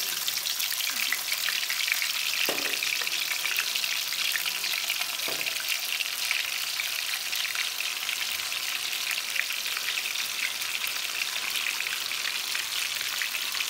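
A whole marinated chicken frying in hot coconut oil in an aluminium kadai: a steady sizzle with fine crackling spatters.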